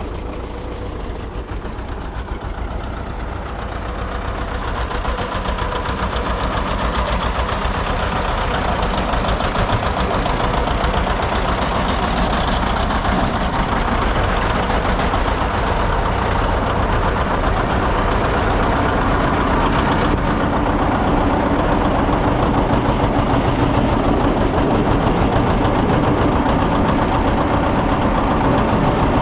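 John Deere 730 tractor two-cylinder engine running with an even, rapid beat of firing strokes, growing gradually louder over the first several seconds.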